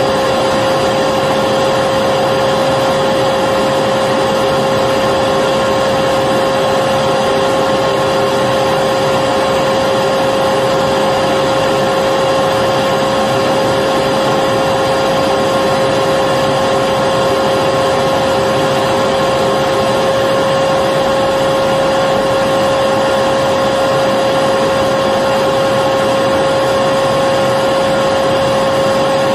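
Electric vacuum cleaner running continuously: a steady, loud motor whine over an even rush of air, with no change in pitch or level.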